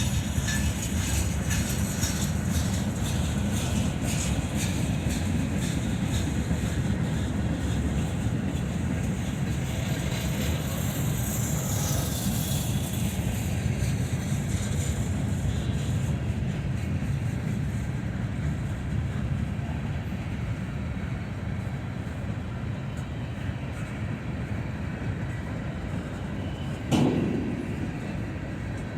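Freight cars of a Norfolk Southern mixed freight train rolling past in a steady low rumble. The wheels clack over the rail joints, thickly at first and thinning out later. Near the end a short, sharp sound falls in pitch.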